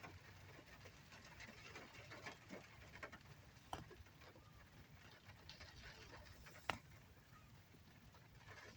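Rain falling, heard faintly: a low steady hiss with scattered sharp drops ticking on a surface, two of them louder, a little before halfway and near the end.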